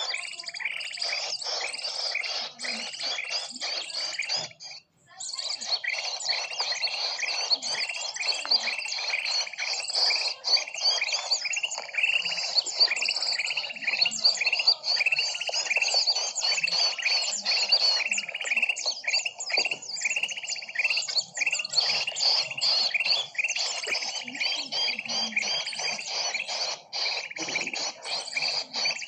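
Bird-lure recording of many small birds chirping in a dense, rapid, unbroken chatter, with a brief break about five seconds in.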